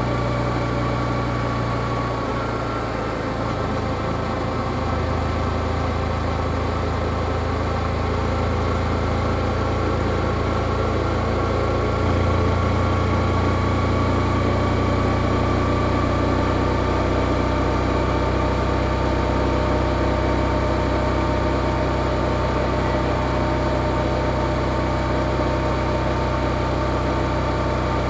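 Yamaha XSR155's single-cylinder engine running through its stock exhaust at a fairly steady pace, its note drifting only slightly, with a brief dip about three seconds in and a small step up around twelve seconds.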